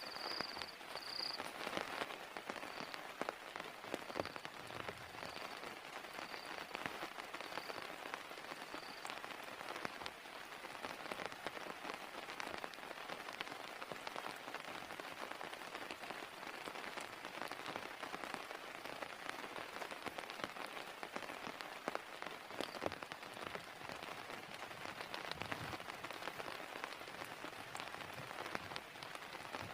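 Heavy rain falling steadily, with many individual drops tapping close by. Over the first several seconds a faint high chirp repeats about once a second and fades out.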